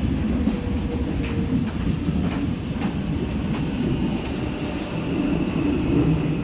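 Seoul Subway Line 4 train running: a steady low rumble of wheels on rail with faint scattered clicks, and a thin steady whine that comes in about four seconds in.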